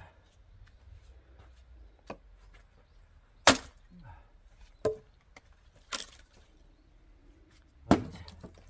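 Axe blows splitting oak firewood: a light knock about two seconds in, then four hard strikes a second or two apart, the first of them the loudest.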